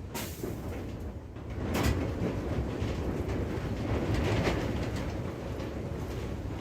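Rain with wind buffeting the microphone: a steady low rumble that swells twice, with a few brief clicks.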